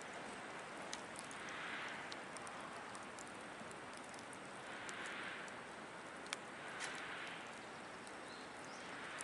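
Wood fire crackling in a small fire stand: a faint, steady hiss with scattered sharp pops and snaps, and a soft swell in the hiss every few seconds.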